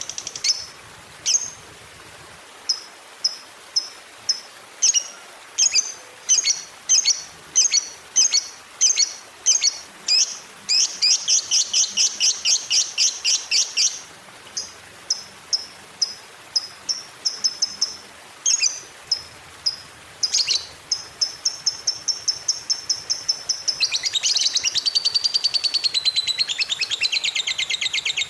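Lovebird singing: sharp high chirps, repeated in series and speeding into fast runs. About three-quarters of the way through comes a long unbroken trill, the 'ngekek' that lovebird keepers prize, and it turns into dense chattering near the end.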